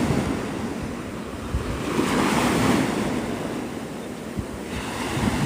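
Gulf surf washing up on the beach, a wave swelling loudest about two seconds in and then easing off, with wind buffeting the microphone.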